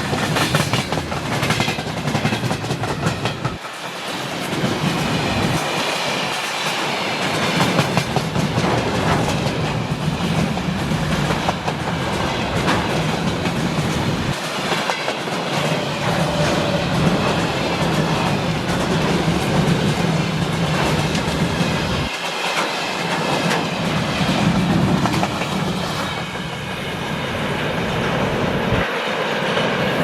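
Freight train rolling steadily past, its wagon wheels clacking over rail joints with a faint metallic ringing.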